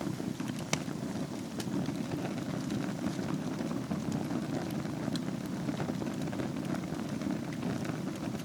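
Wood fire burning in a fireplace bed of embers: a steady low rush of flames with scattered sharp crackles and pops, one louder pop about a second in.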